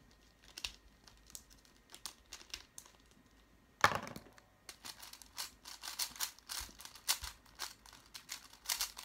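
Twisty puzzle cube being turned quickly by hand, its plastic layers clicking and rattling as it is scrambled, with a louder knock about four seconds in. The clicks come sparsely at first, then in a dense run.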